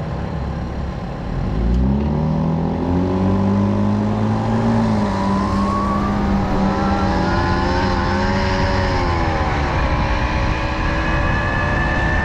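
Small two-stroke engine of a Tomos moped under way. It revs up about two seconds in and holds steady, dips and picks up again around the ninth second, then rises once more near the end.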